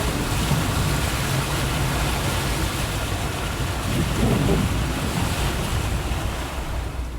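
Heavy rain falling steadily, with a low rumble underneath that swells about four seconds in.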